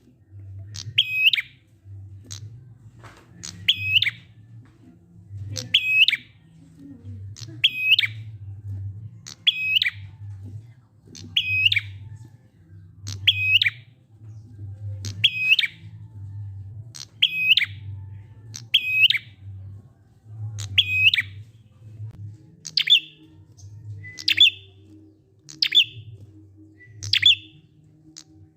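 A prinia (prenjak) calling in the slow 'ngalun' style: one short, sharp, high chirp repeated about every one and a half to two seconds, with a low rumble underneath.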